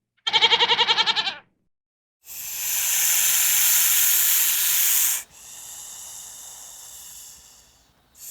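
A short quavering bleat of about a second, then a long loud hiss of about three seconds that drops to a quieter, fading hiss for a few more seconds.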